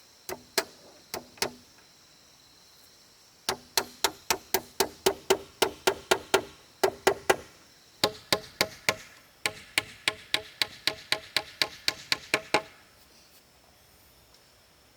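Hammer driving nails into wooden formwork: three blows, then two long runs of quick, even strikes at about four a second, each with a short ringing note.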